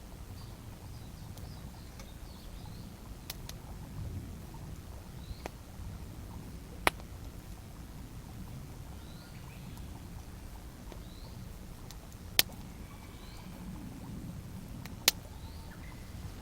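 Wood campfire burning with occasional sharp pops and snaps from the burning wood, a handful of isolated cracks spaced several seconds apart, three of them much louder than the rest.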